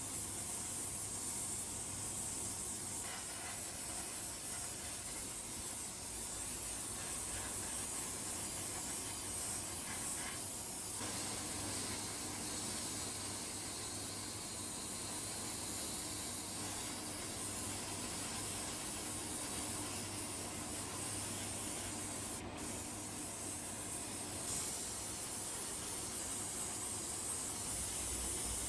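Steady hiss of a compressed-air spray tool working on the car body, with a brief break about 22 seconds in.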